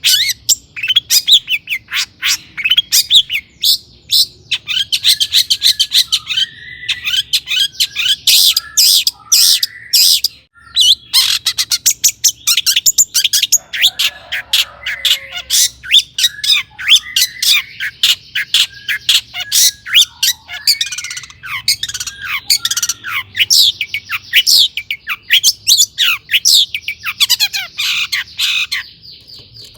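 Long-tailed shrike singing a fast, continuous chattering song of rapid downward-sweeping notes mixed with harsh squawks.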